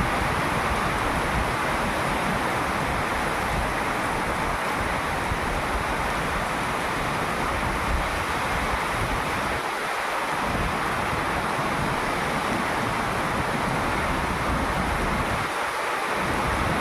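Heavy typhoon rain and strong wind, a steady loud rushing with wind rumbling on the microphone. The rumble eases briefly about ten seconds in and again near the end.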